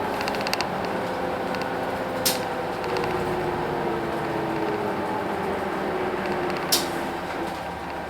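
Cabin sound of a Hino Blue Ribbon City route bus with its P11C 10.5-litre diesel: a steady mechanical drone whose faint tones slowly fall in pitch, with light rattling and creaking of the cabin fittings. Two sharp clicks stand out, about two seconds in and near the end.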